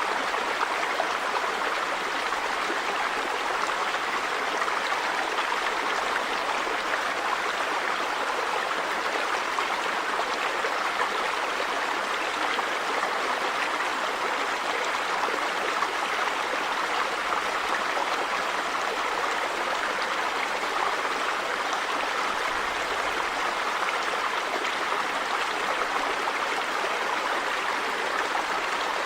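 River water running over stones, a steady rushing and babbling with no breaks.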